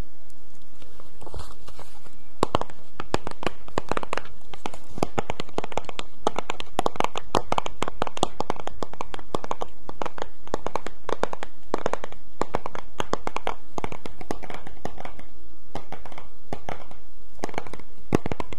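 Dense, irregular crackling and clicking close to the microphone, an ASMR trigger sound.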